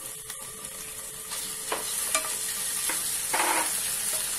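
Chopped onions and ginger-garlic paste sizzling in hot oil in a stainless steel pan, with a wooden spatula scraping and stirring several times.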